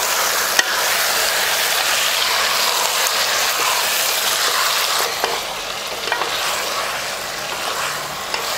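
Marinated chicken pieces sizzling and frying in hot oil with onions in a pot, stirred with a wooden spatula, with a few sharp clicks of the spatula. The sizzle eases a little about five seconds in.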